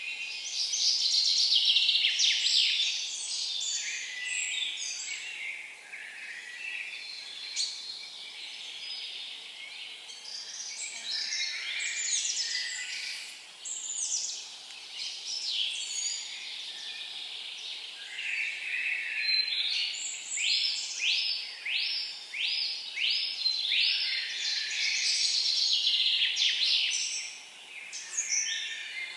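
Several songbirds singing together in a forest, with chirps and down-sweeping notes overlapping, and a quick run of repeated down-sweeping notes in the last third.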